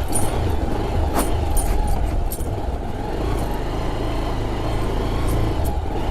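Motor vehicle noise, a steady low rumble with a few sharp clicks.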